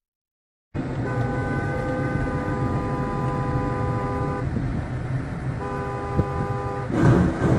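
After a brief silence, a vehicle horn sounds in two long blasts, the first about three seconds and the second about a second and a half, over steady road and engine noise.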